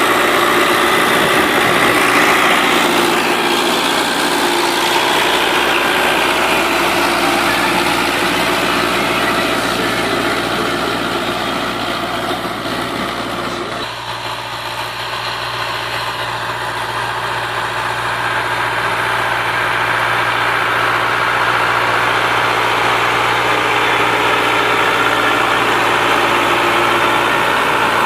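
Rakovica 65 tractor's diesel engine running steadily while pulling a plough through stubble. Its sound gets quieter and lower about halfway through, then slowly builds again.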